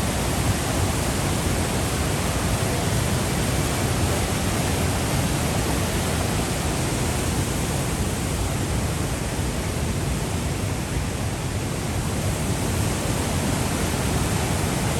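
Düden Waterfall's water falling steadily, a loud, even rush with no breaks.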